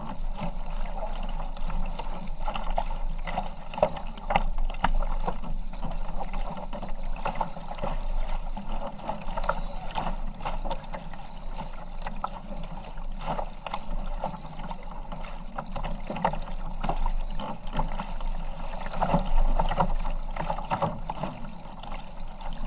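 Kayak paddling on open water: paddle blades dipping and splashing in an irregular run of short strokes over steady water noise.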